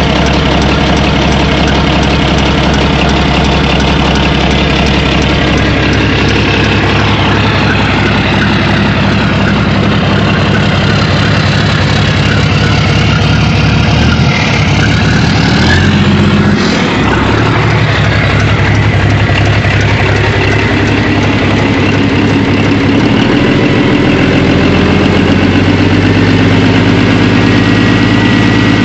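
Komatsu SA6D170E-2 straight-six turbo diesel bulldozer engine running steadily during its running-in after a first start. Its speed changes about halfway through, then it settles again.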